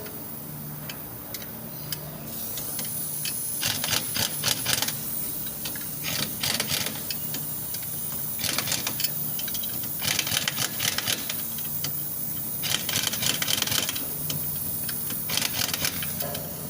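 Repeated bursts of rapid metallic clicking from hand tools during work on a vehicle differential, each burst about a second long, over a faint steady low hum.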